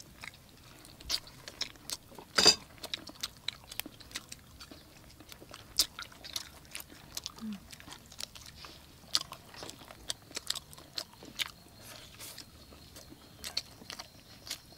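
Several people biting and chewing sauce-coated fried chicken wings: irregular wet smacks and small crunchy clicks, with one sharp crunch about two and a half seconds in.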